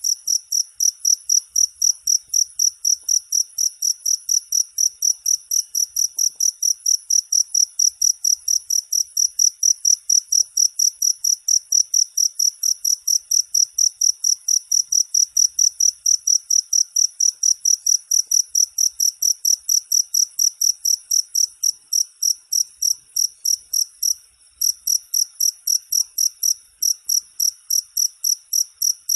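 Cricket chirping: a loud, high-pitched chirp repeated rapidly and evenly, several times a second, with one short break about 24 seconds in.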